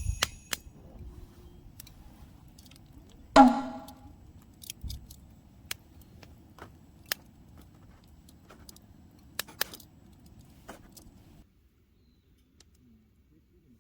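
Wood fire crackling, with sharp pops every second or so over a low steady noise. A metal jingle comes right at the start and a single loud metallic clank about three seconds in, from camp cooking gear. The sound cuts off abruptly near the end.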